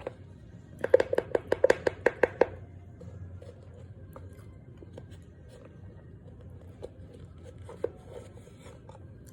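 A quick run of about a dozen sharp knocks, about seven a second, lasting a second and a half, then a few scattered faint clicks and one louder knock near the end.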